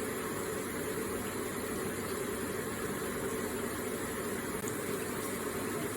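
Electric garden water feature with water trickling and splashing steadily.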